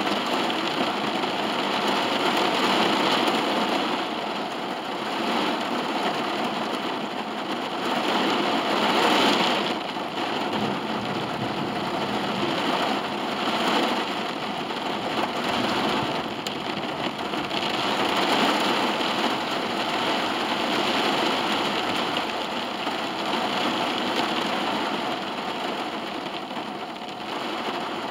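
Rain falling on the roof and windows of a car, heard from inside the cabin: a steady hiss that swells and eases every few seconds.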